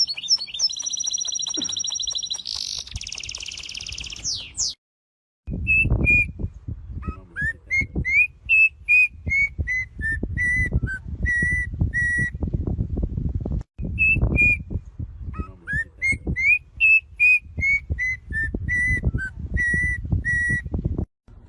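A bird whistling a run of clear notes, a few rising and then a stepped falling series, given twice in near-identical phrases. This follows a few seconds of buzzy high trilling that cuts off abruptly. A low rumble pulses beneath the whistles.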